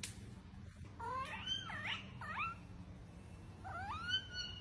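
A cat meowing: three short wavering calls about a second in, then two more, the last a long rising one, near the end.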